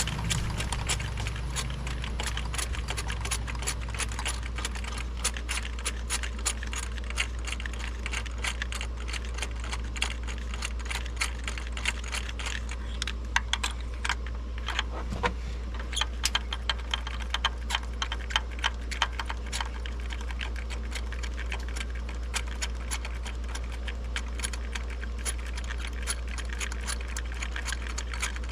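Ratchet on a spark plug socket clicking in quick, irregular runs as spark plugs are worked out of a Honda K24 four-cylinder, over a steady low hum.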